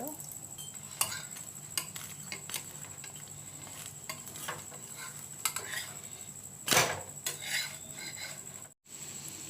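Metal ladle clinking and scraping against a frying pan as a lachha paratha fries in oil, with a low sizzle underneath. There is one louder knock about seven seconds in.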